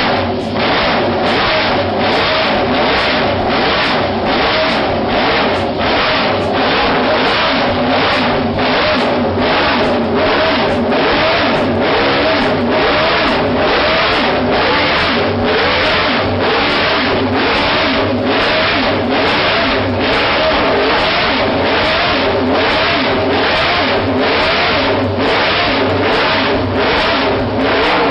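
Eight-cylinder car engine revving repeatedly through a racing exhaust, its pitch rising and falling, under background music with a steady beat of about two strikes a second.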